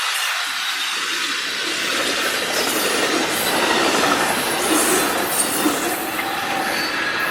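Freight train's cars rolling past on the rails, steel wheels running steadily with some wheel squeal.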